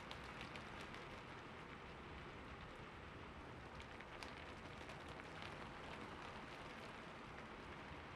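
Steady rain falling and pattering on a surface, with scattered individual drop ticks standing out, played softly.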